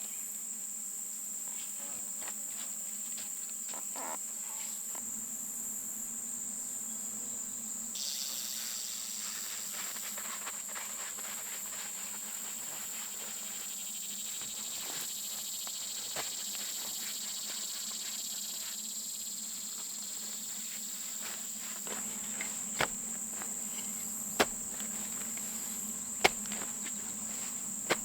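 Insects chirring steadily in a high pitch, a continuous woodland insect chorus. A few sharp knocks sound in the last several seconds.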